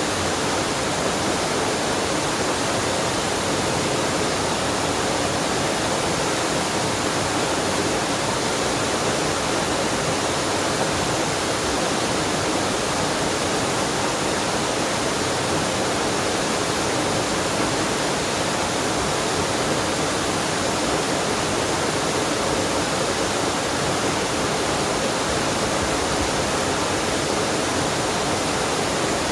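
Waterfall on a mountain stream: water falling and rushing, a steady, unbroken noise.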